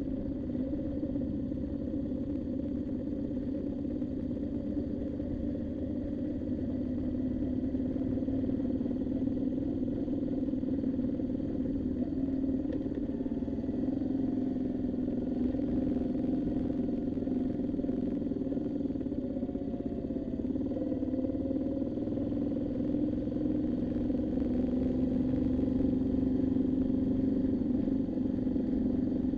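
Moto Guzzi V7's V-twin engine running steadily while riding, its pitch rising and falling a little in the middle and the engine getting slightly louder near the end.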